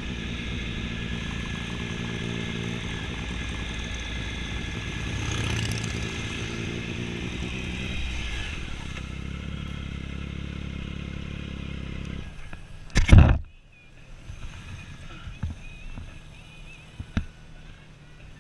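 Motorcycle engine running under way, swelling briefly about five seconds in and easing off about eight seconds in. It drops away about twelve seconds in, a sudden loud burst of noise follows about a second later, and after that it is much quieter with a few small clicks.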